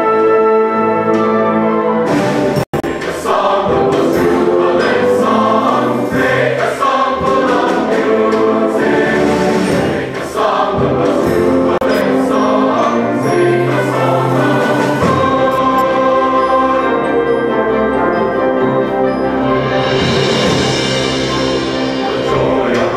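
Choir singing a piece, with a brief split-second break in the sound about three seconds in.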